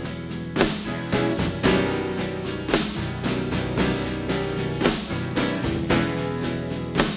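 Live rock band playing an instrumental passage between sung lines: sustained chords and notes with occasional sharp struck accents.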